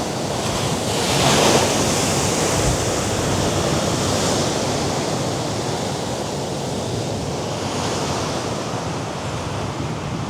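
Mediterranean sea waves breaking and washing against rocks below a cliff, with a louder surge about a second in and softer swells after, under a steady wash of wind.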